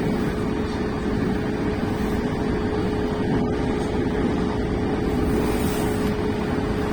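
Keiyo Line rapid train running at speed between stations, heard from inside the passenger car: a steady rumble of running noise with a steady whine.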